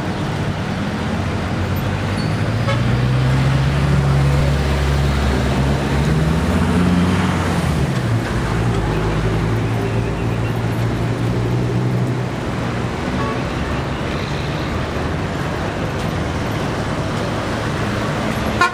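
Heavy diesel engine, most likely a locomotive, running with a low steady drone whose pitch rises about six seconds in and falls back about two seconds later, over a general traffic hum.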